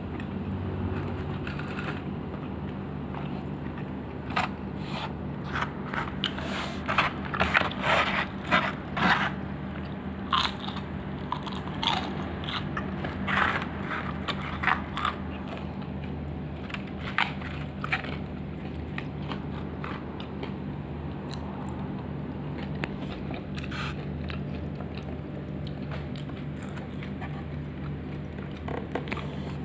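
Close-up crunching and chewing as crispy fried smashed chicken (ayam geprek) is bitten and eaten by hand. The sharp crunchy bites come thick and fast in the first half, then grow sparser, over a steady low hum.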